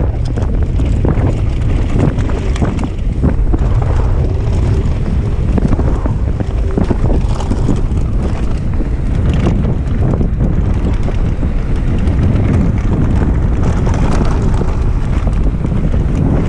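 Wind buffeting the microphone of a camera carried on a mountain bike riding down a rough track, with frequent knocks and rattles from the bike over bumps.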